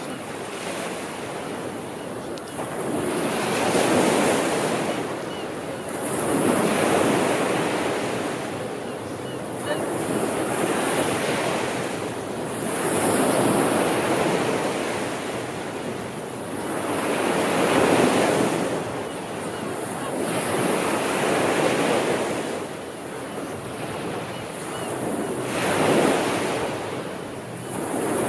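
Sea waves breaking and washing up the shore, the surf swelling and falling back in surges every few seconds.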